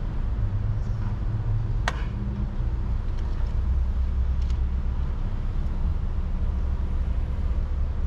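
Car engine running steadily with a low hum, and one sharp click about two seconds in.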